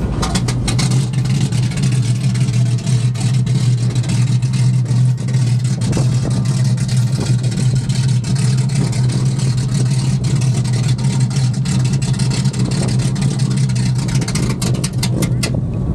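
Race car's engine idling steadily, a constant low drone with rapid clicks over it.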